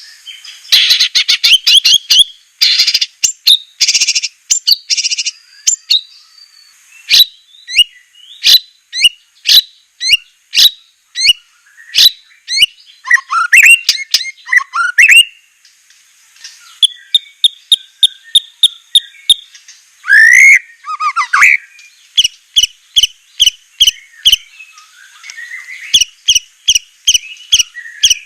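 White-rumped shama (murai batu) singing a fast, varied song of sharp whistled notes, rapid trills and harsh rasping phrases, with runs of evenly repeated notes and a falling whistle partway through.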